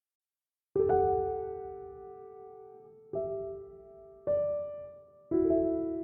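Background piano music: after a silent start, slow sustained chords are struck about a second in and then roughly every second or two, each ringing out and fading.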